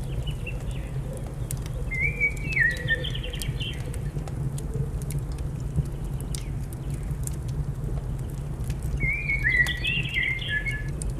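Fireplace fire crackling with scattered sharp pops over a steady low rumble, while a songbird sings two short warbling phrases: one about two seconds in, and one again near the end.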